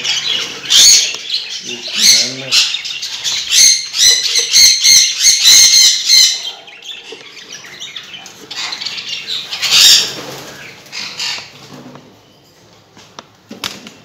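Caged pet birds in breeding cages squawking loudly in quick repeated harsh calls, with wing fluttering. The calls come in a dense run in the first half and once more near the end, then die down.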